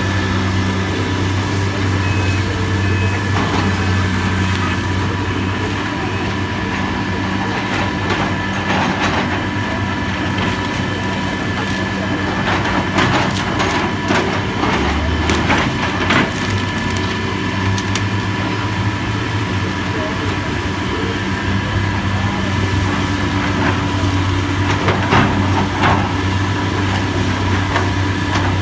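Heavy demolition machinery running steadily, with scattered cracks and crunches of wood being broken, clustered in the middle and again near the end.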